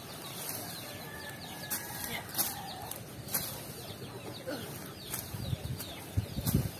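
Birds chirping in short falling notes, broken by a few sharp clicks and knocks, with a low rustling building near the end.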